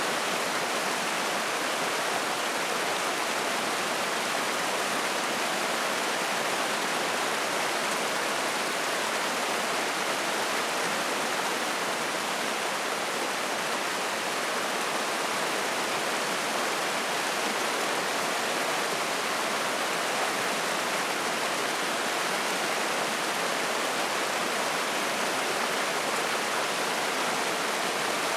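Spring-fed mountain stream flowing and splashing: a steady, even rush of water.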